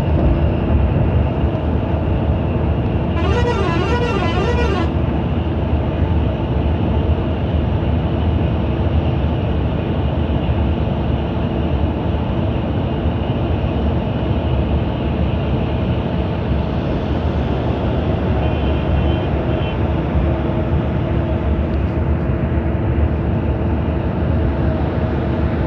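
Big diesel coach engine running steadily at road speed. A horn sounds for about a second and a half about three seconds in, with a rapid warbling pattern, and a fainter short tone comes about two-thirds of the way through.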